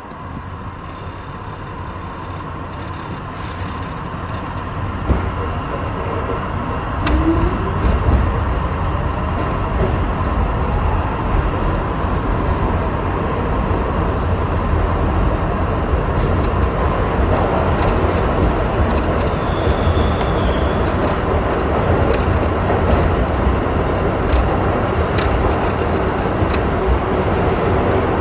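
Kawasaki R62 subway train pulling away and running. The rumble of wheels and motors grows steadily louder over the first several seconds as it gathers speed, with scattered sharp clicks and knocks.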